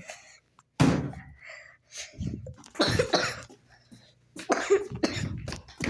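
A person coughing, several separate coughs a second or two apart.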